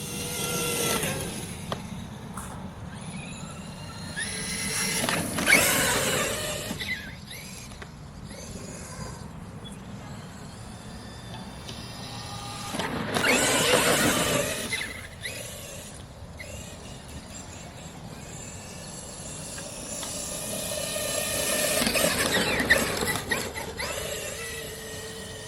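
Traxxas X-Maxx 8S electric RC monster truck being driven in runs. Its drivetrain gives a high whine that rises and fades four times as it speeds up and passes.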